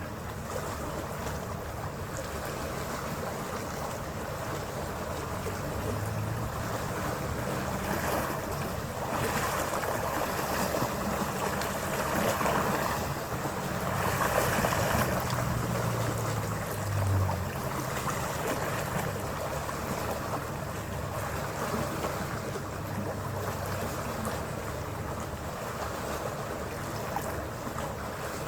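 Ferry under way: a steady engine drone with water rushing along the hull and wind on the microphone, the rush swelling louder for several seconds in the middle.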